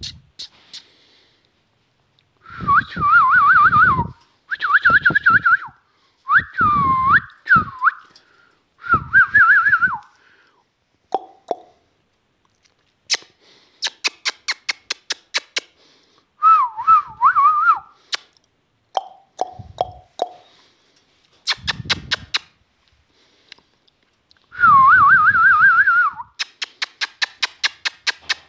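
Pet parrot whistling: about six warbling, quickly trilled whistles of a second or two each, with runs of rapid clicks in between.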